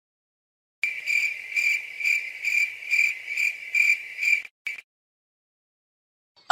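Cricket chirping sound effect: a steady high trill pulsing about twice a second, starting about a second in and cutting off abruptly after about three and a half seconds, with one short chirp just after.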